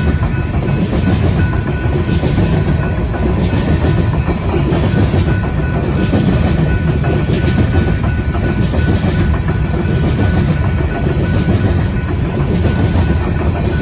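Coal train's cars rolling past at speed: a steady, loud rumble with the clickety-clack of wheels over the rails.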